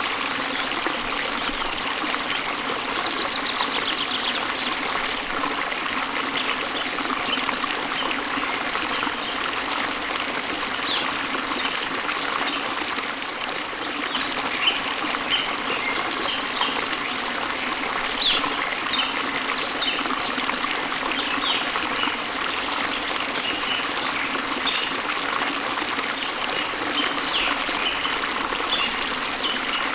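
A waterfall's steady rush of flowing water, with short high bird chirps scattered through it.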